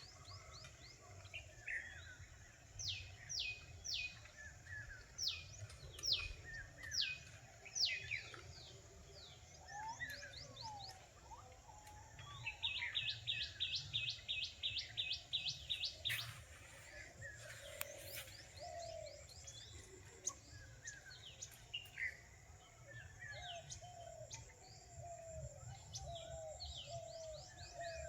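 Several forest birds calling over one another: a run of loud, sharply falling whistles in the first third, a rapid even trill of about eight notes a second from about halfway, and shorter low notes near the end. A steady low rumble runs underneath.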